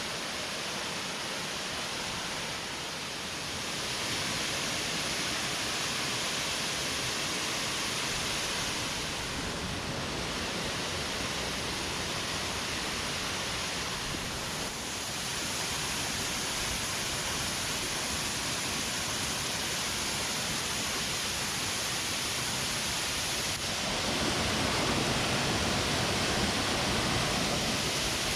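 Steady rush of water falling from a tall waterfall. It grows louder and fuller in the low range near the end.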